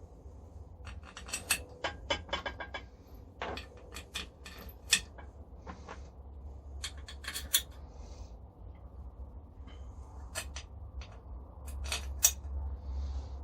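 Steel grinder parts and hand tools clinking and clattering as they are handled and fitted together: a string of irregular sharp metallic knocks, some ringing briefly, over a low steady hum.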